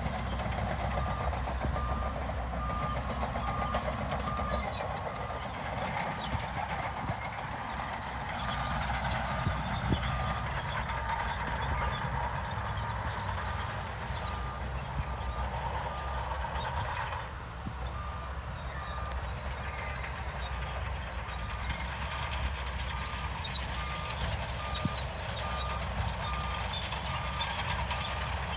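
A heavy diesel construction machine's backup alarm beeps at about two beeps a second while the machine reverses, pausing briefly past the halfway point. Under the beeps the diesel engine runs with a steady low rumble and a constant clatter.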